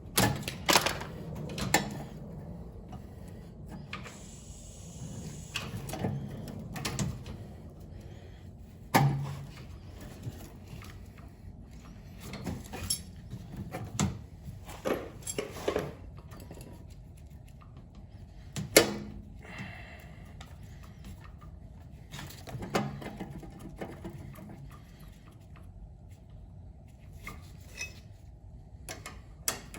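Irregular metallic clinks, clatters and knocks of tools and metal parts being handled during boiler servicing, with one sharper knock about two-thirds of the way through.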